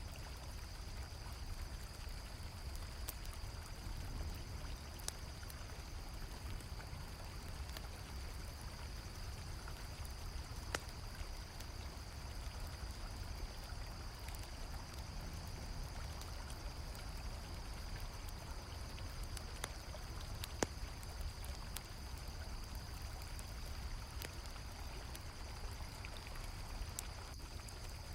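River water flowing steadily, under a constant high chirring of crickets, with scattered campfire crackles and pops.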